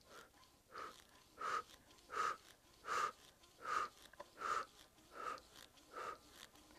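A steady run of about nine short, matching sounds, one every three-quarters of a second, in time with tricep extension reps on resistance tubing anchored over the top of a door.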